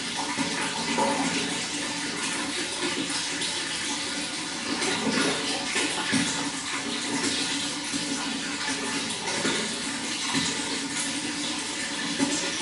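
Running water flowing steadily, an unbroken rush with a fine splashing texture.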